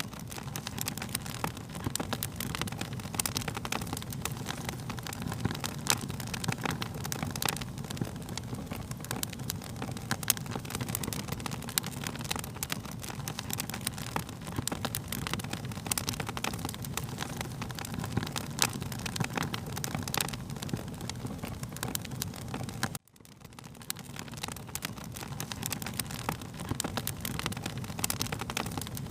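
Wood fire crackling and popping over a steady low rumble of flames. About 23 seconds in, the sound cuts out abruptly and fades back in.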